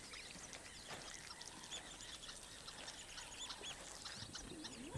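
Faint chorus of many small bird chirps and short calls overlapping, over a quiet background hiss.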